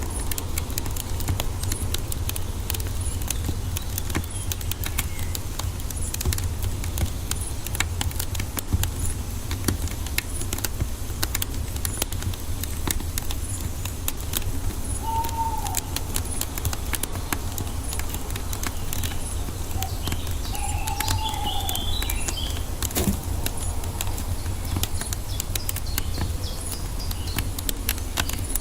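Wood fire crackling with a continuous stream of small pops over a low, steady rumble. Birds call now and then: two short arching calls around the middle, and brief higher chirps in the second half.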